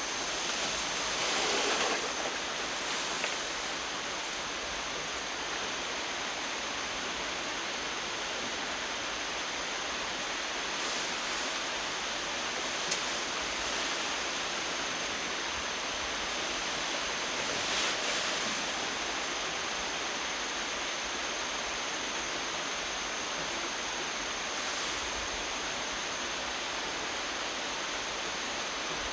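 Steady, even outdoor hiss with a faint, thin, high steady tone running through it, and a few brief soft rustles and one sharp tick about thirteen seconds in.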